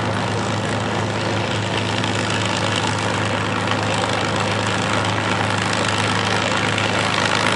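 P-51D Mustang's Packard-built Merlin V-12 engine running steadily at low power as the fighter taxis in.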